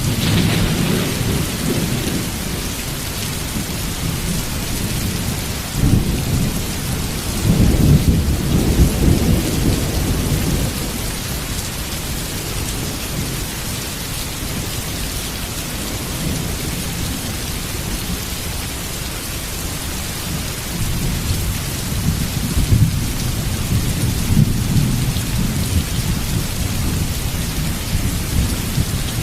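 Heavy rain pouring steadily, with thunder rolling in low rumbles twice: a long roll about six seconds in, and another building from about twenty seconds in.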